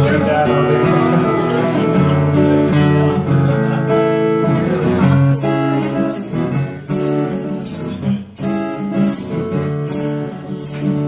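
Live instrumental song intro: strummed acoustic guitar chords, with a tambourine coming in about halfway through on a steady beat.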